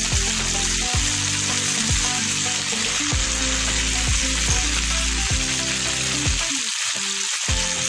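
Sliced onions, tomatoes, green chillies, curry leaves and ginger-garlic paste sizzling steadily as they fry in hot coconut oil in a pan.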